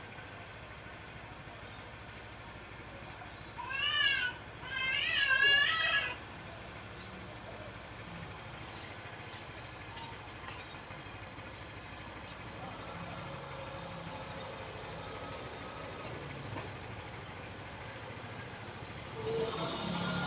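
White-rumped shama (murai) calling: short high chirps repeated again and again, with a loud warbled phrase about four to six seconds in.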